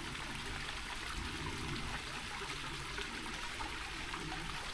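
Small rocky mountain stream running low over stones: a steady trickling rush of water.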